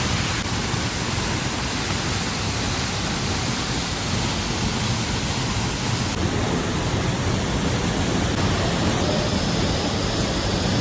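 Waterfall's falling water rushing steadily and loudly, an even wall of noise; its upper hiss shifts slightly about six seconds in.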